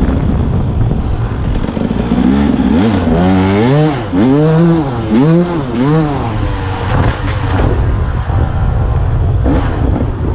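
Dirt bike engine running, with the throttle blipped about half a dozen times in quick succession from about two seconds in. The pitch rises and falls with each blip, followed by a few lighter revs near the end.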